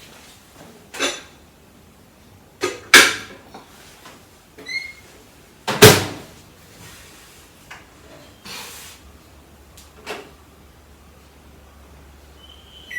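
Microwave oven being loaded and started: several sharp clacks and knocks as the covered bowl goes in and the door is shut, a short keypad beep, then the oven's low steady hum starting about nine seconds in, with more keypad beeps near the end.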